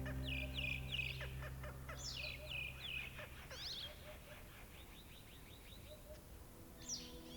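Birds calling: a series of short, sharp chirps, each falling in pitch. Then comes a quick, even run of faint ticks for about two seconds, and another chirp near the end. Soft background music fades out in the first seconds.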